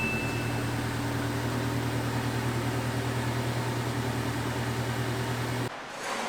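Steady mechanical hum with a hiss, which cuts off suddenly near the end; a brief high beep sounds at the very start.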